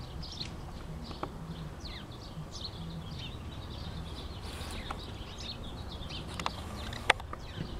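Small birds chirping over and over above a low steady outdoor rumble, with two sharp knocks near the end, the second the loudest.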